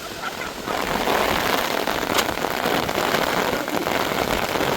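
Heavy rain falling on a hard surface: a dense, steady hiss that grows louder about a second in.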